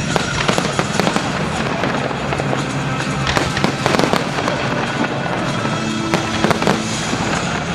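A fireworks display: shells bursting in a rapid, irregular string of bangs and crackles, with music playing underneath.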